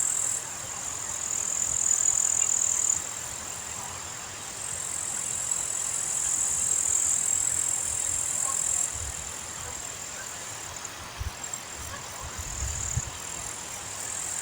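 Wind blowing over an open mountain meadow, gusting and buffeting the microphone with low rumbles that grow stronger about nine seconds in, over a steady high-pitched hiss that rises and falls in level every few seconds. A few faint bird calls come through.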